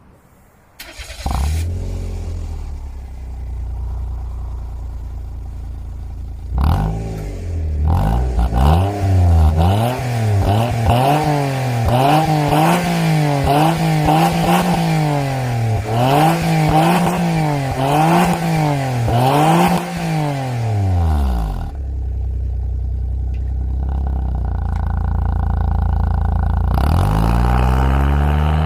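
Suzuki Wagon R MH21S with a Rosso Modello CHALLENGE aftermarket muffler: the small three-cylinder engine idles through the exhaust, then is blipped in a long run of quick revs. It settles back to idle and near the end pulls away, the exhaust note rising as the car accelerates.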